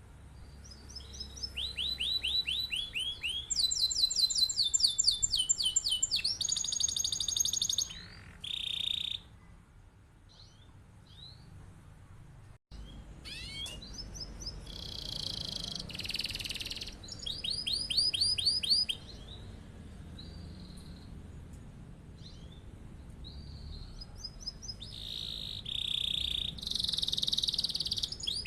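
Domestic canary singing long rolling trills: phrases of fast, evenly repeated high notes, one run after another, with a short lull about halfway through.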